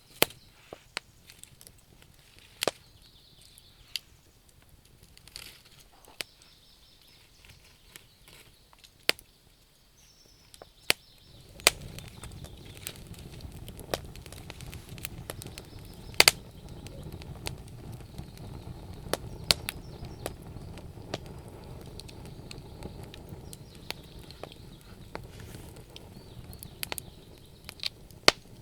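Bonfire of burning wood crackling, with irregular sharp pops and snaps. About twelve seconds in, a steady low rushing sound comes in under the pops and continues.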